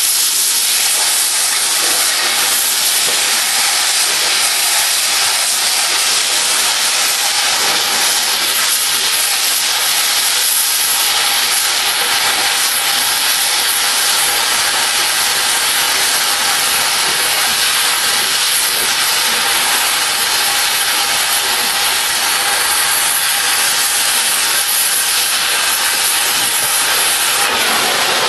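Oxy-fuel cutting torch hissing steadily as it flame-cuts through steel railroad rail.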